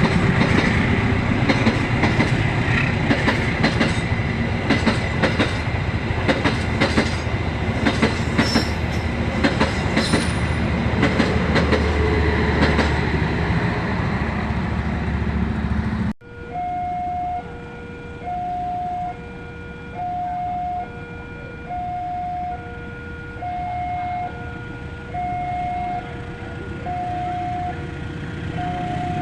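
A passing train, its wheels clacking over rail joints with a steady low rumble. About sixteen seconds in the sound cuts abruptly to an electronic two-tone warning signal, a higher and a lower tone alternating about once a second each.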